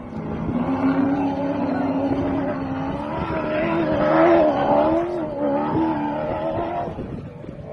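A rally vehicle's engine running hard as it passes, rising in pitch and loudness to a peak about four seconds in, then dropping away and fading.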